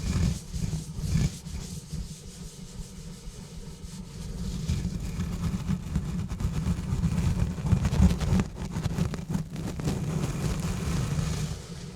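Textured exfoliation gloves rubbing and scratching directly on a bare microphone: a dense, continuous scratchy rubbing with a heavy low rumble. It is softer from about one to four seconds in, then louder and steady.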